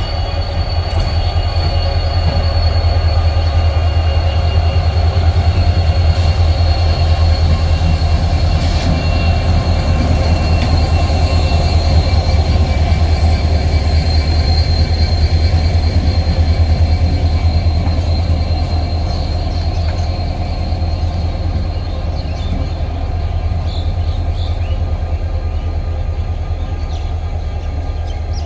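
Indian Railways train passing close by: a loud, continuous rumble of wheels on the track with a steady high-pitched squeal of steel wheels on rail. It eases off slightly in the last third.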